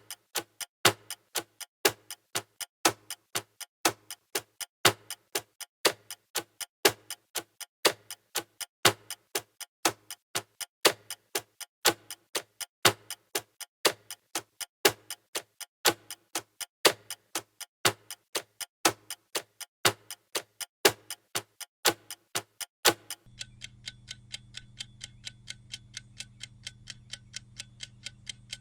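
Clock ticking steadily, about two ticks a second, alternating louder and softer in a tick-tock. About 23 seconds in it switches to a different clock, with fainter, quicker ticks over a steady low hum.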